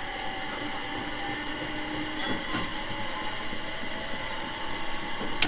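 JR 701 series 5500 subseries electric train running, heard from inside the passenger car: a steady rumble of wheels on rail under the hum of the electric drive. A short metallic click about two seconds in and a sharp, louder click right at the end.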